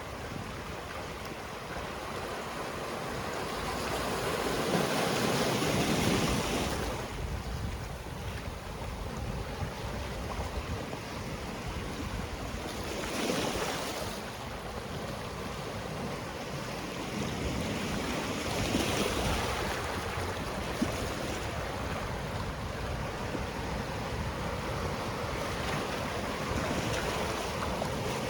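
Sea waves breaking and washing on the shore, a steady surf hiss that swells with a louder wave about five seconds in, again around thirteen seconds, and again near nineteen seconds, with some wind on the microphone.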